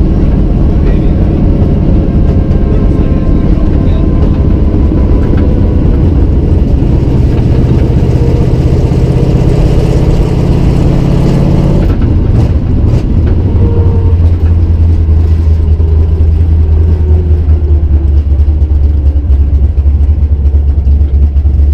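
Cammed 351 Windsor V8 of a Fox-body Mustang, heard from inside the cabin, running loud through forward-facing headers while cruising. About twelve seconds in, the pitch drops and the engine settles into a lower, steady note that sags slowly.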